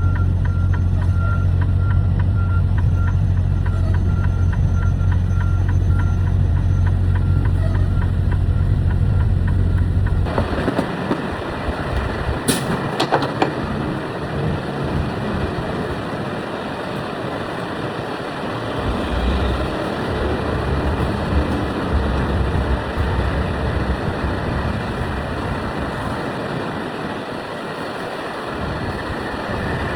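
Truck heard from inside the cab. First a deep, steady engine hum with a fast, even ticking. About a third of the way in, the hum gives way suddenly to a broader rushing road noise, with a brief clank a couple of seconds later.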